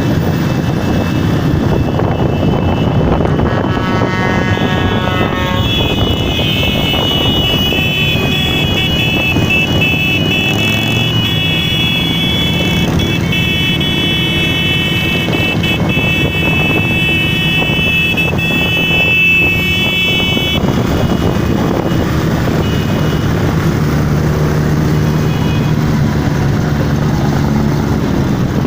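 Many motorcycle engines running together as a parade passes: a loud, continuous mix of engine noise. A high, steady tone of several notes joins about four seconds in and stops abruptly about twenty seconds in.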